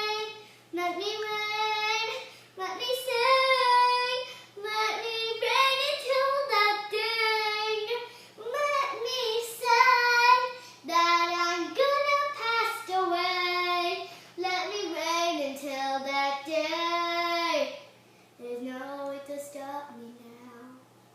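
A young girl singing unaccompanied, long held notes in separate phrases; the last phrases, from about 18 seconds in, are softer.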